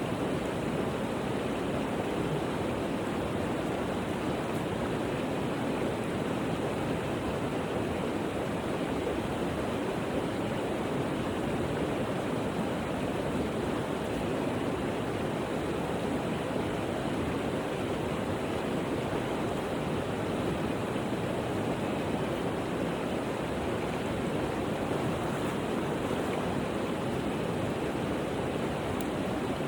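Steady rushing water, an even unbroken noise with no change in level.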